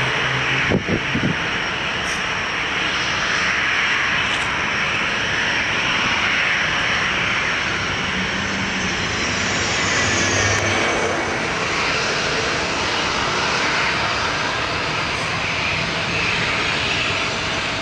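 Jet airliner coming in to land, its engines a loud steady rush with thin whining tones that slide down in pitch about ten seconds in. A short knock sounds about a second in.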